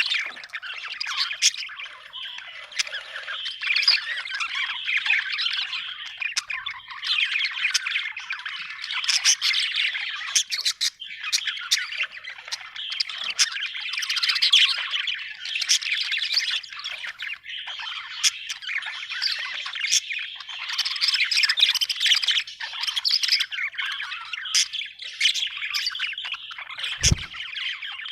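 Budgerigars chirping and chattering continuously, with warbles and short squawks from more than one bird. A brief low thump comes near the end.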